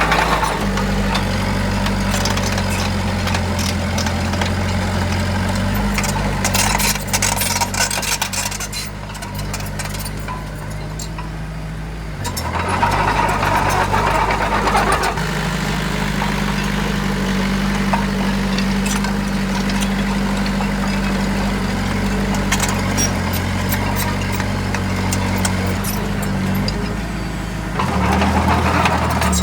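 Heavy construction machine's diesel engine running steadily, its note changing several times as it is throttled up and down.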